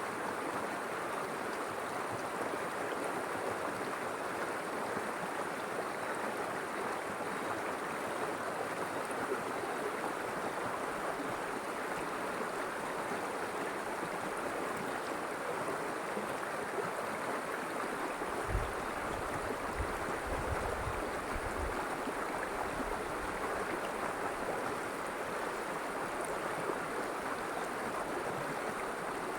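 River water flowing, a steady, even rush. A few brief low rumbles come about two-thirds of the way through.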